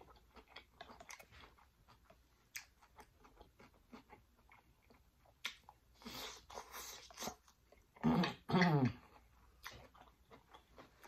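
Close-up chewing of sautéed vegetables (snap peas, baby corn, broccoli and carrots), with soft crunches and wet mouth clicks. A short hummed vocal sound comes about eight seconds in.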